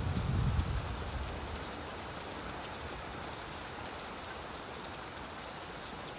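Steady rain falling, an even hiss of drops on a surface. A low rumble fades out over the first second or so, leaving the rain on its own.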